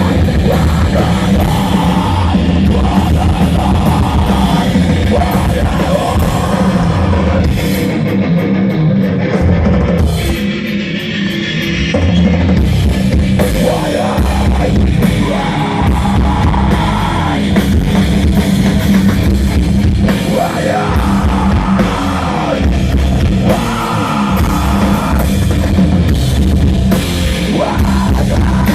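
Live rock band playing a heavy rock song, with a pounding drum kit and guitar. The low end drops out briefly about ten seconds in, then the full band comes back.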